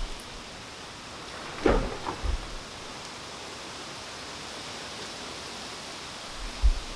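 Steady rain falling, an even hiss, with a few louder thuds about two seconds in and again near the end.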